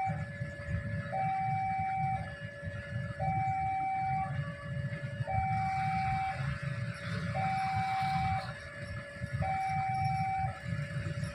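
Two-tone electronic warning alarm alternating steadily between a high and a low note, about a second each, over a low rumble.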